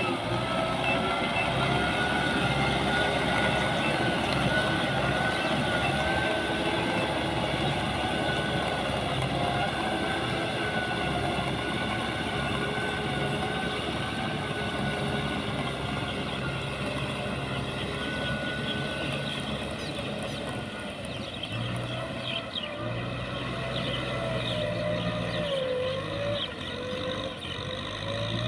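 Diesel engine of heavy farm or earth-moving machinery running steadily, with a whine above it that wavers slightly in pitch.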